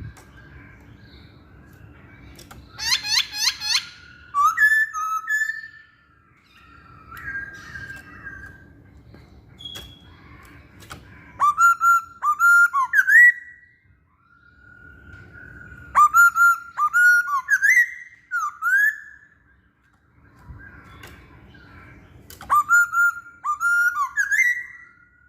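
Black-throated laughingthrush (poksay Hongkong) singing: loud, clear whistled phrases that rise and fall, in several bouts with short pauses, some with rapid high notes above them.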